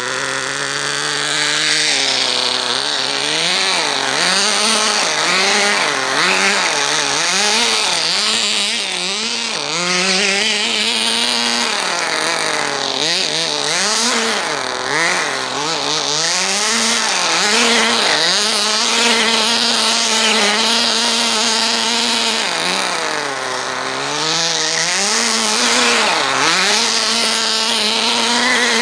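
Small nitro glow engine of a Kyosho Sandmaster 10 RC buggy running and being revved up and down over and over, its pitch rising and falling about every second or two.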